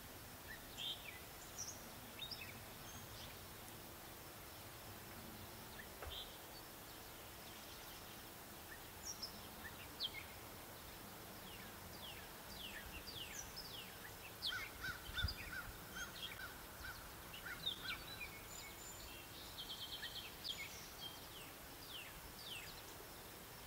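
Wild birds calling faintly over steady outdoor background noise. Many short, high, downward-sliding chirps are scattered throughout, and in the second half comes a run of evenly repeated lower notes and a brief buzzy trill. There is one soft low bump a little past halfway.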